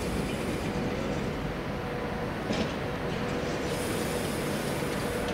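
Train running at a station: a steady low rumble with a faint steady hum, and one short click about two and a half seconds in.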